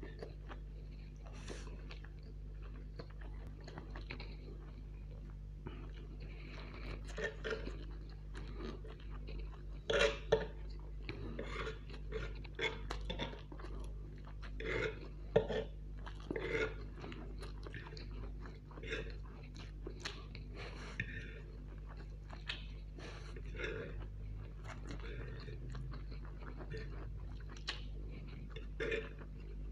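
A man chewing mouthfuls of chow mein noodles close to the microphone, with irregular short sharp clicks, loudest about ten and fifteen seconds in, over a steady low hum.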